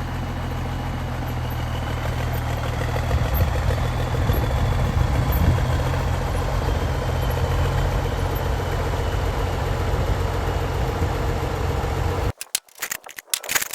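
Tractor engine idling steadily, growing louder and rougher about three seconds in. The engine sound cuts off abruptly near the end.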